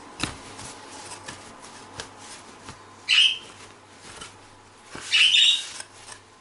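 A bird squawking twice, a short harsh call about three seconds in and a longer one about two seconds later, over soft taps and the rub of a towel as a circuit board is handled and dried.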